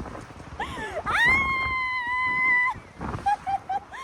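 A person screaming with excitement on a fun ride: a high-pitched scream that swoops up and is held steady for over a second, with a few short yelps after it.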